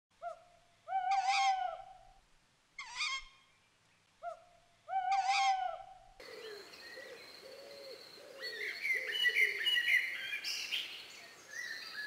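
Three loud, harsh bird calls about two seconds apart, each with a short blip before it. From about six seconds in, a busier bed of many small birds chirping and twittering takes over.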